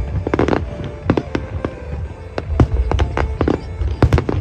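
Aerial fireworks shells bursting in a rapid, irregular string of bangs and crackles, with a dense cluster of bursts near the end, over music playing along with the display.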